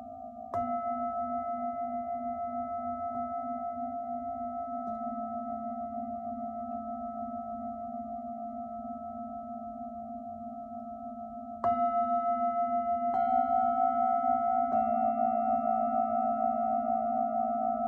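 Singing bowls ringing, their overlapping tones pulsing slowly. A bowl is struck about half a second in and again after about twelve seconds, followed by two lighter strikes over the next few seconds that add higher tones.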